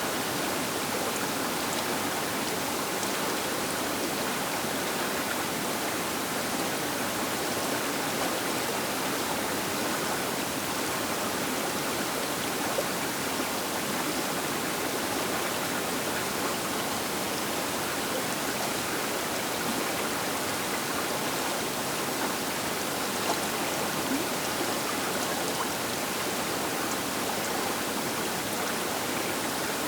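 Large river flowing past its bank, a steady rushing with no change in level.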